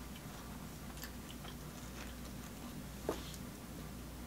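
Faint close-up chewing of a soft sub sandwich: small wet mouth clicks, with one slightly louder click about three seconds in.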